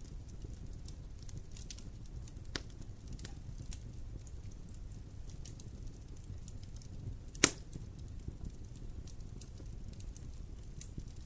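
Wood fire burning in a fireplace: a low steady rumble with scattered small crackles, and one loud pop about two-thirds of the way through.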